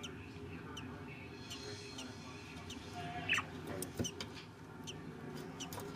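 Budgerigars chirping: scattered short, high chirps and ticks, with one louder chirp about three seconds in, over a steady low hum.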